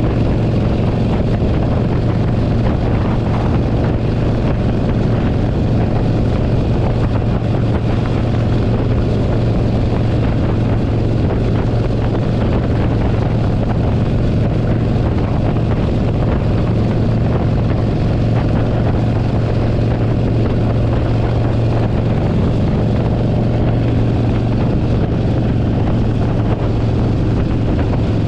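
Harley-Davidson Forty-Eight Sportster 1200's air-cooled V-twin running at a steady cruise, with wind rushing over the microphone.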